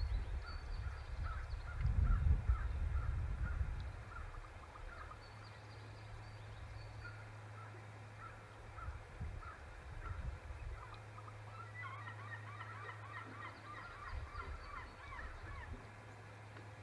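A number of birds calling in many short, rapid chattering notes, thickest toward the end. A low rumble about two seconds in, and a steady low hum underneath.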